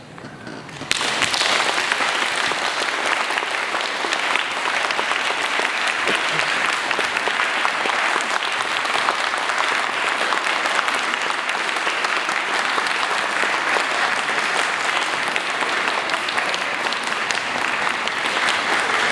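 Concert audience applauding: the clapping breaks out suddenly about a second in and goes on steadily.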